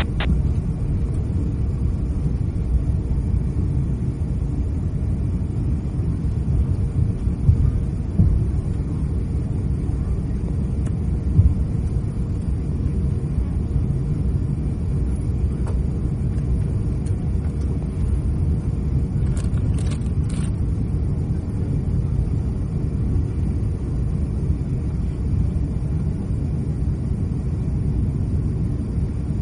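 Steady low rumble inside the cabin of an Airbus A350-900 taxiing after landing: engines at idle and the airliner rolling on the taxiway, with a faint steady hum and a few light clicks about two-thirds of the way through.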